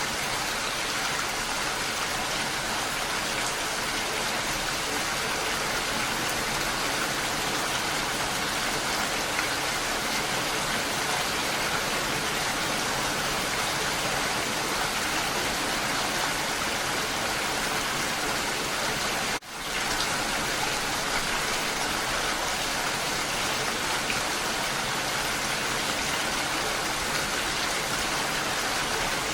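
Steady, heavy rain falling as a dense, even hiss. It cuts out for an instant about two-thirds of the way through, then comes straight back.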